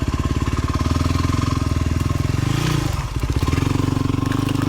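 Dirt bike engine running at low revs with a steady pulse, rising briefly about two and a half seconds in and dropping back before settling again.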